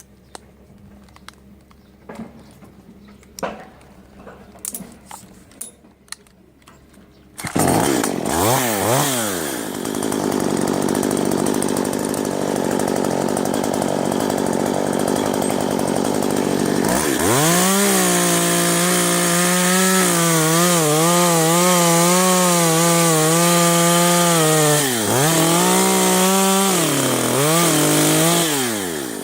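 A few light clicks and knocks, then a gasoline chainsaw comes up loud about seven seconds in and revs up and down. From about seventeen seconds it runs at high revs, its pitch dipping a few times near the end as the chain bites into the wood.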